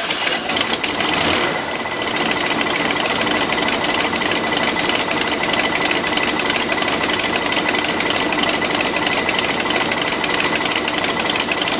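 Chevrolet Camaro V8 engine on a cold start after winter storage, making a fast, steady mechanical clatter with a high whine, a little louder about a second in.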